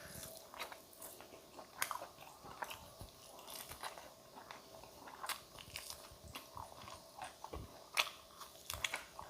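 Close-up eating sounds: crisp bites and crunchy chewing, with irregular sharp crunches throughout and the loudest bites about two seconds in and near the end.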